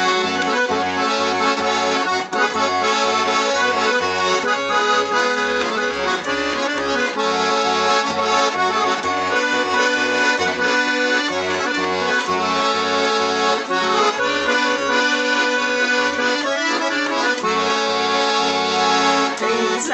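Garmon (Russian button accordion) playing an instrumental break of a slow folk-style song melody over a regular left-hand bass-and-chord accompaniment.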